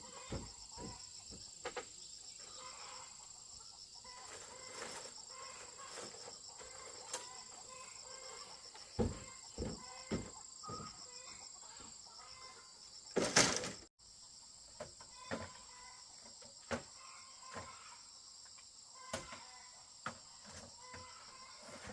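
Chickens clucking over a steady high chorus of insects, with scattered short knocks and taps and one louder burst of noise about thirteen seconds in.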